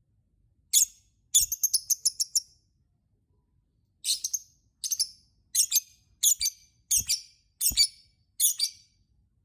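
Lovebird calling in sharp, high-pitched chirps: a single call, then a quick run of chirps, then after a pause a string of short separate bursts about every half second.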